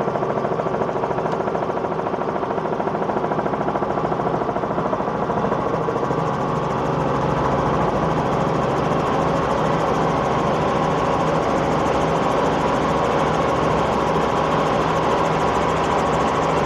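Helicopter in flight heard from inside the cabin: steady engine and rotor noise with a rapid, even pulsing beat, growing slightly louder about six seconds in.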